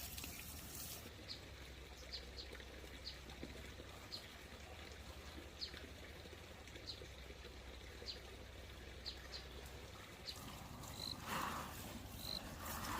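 Faint outdoor ambience with short, high-pitched animal chirps scattered through it. Near the end they settle into a regular call about once a second, over a steady low hum.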